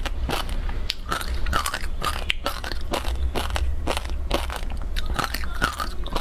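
Frozen passion fruit ice being bitten and chewed close to the microphone: a run of sharp, irregular crunches several times a second, over a steady low hum.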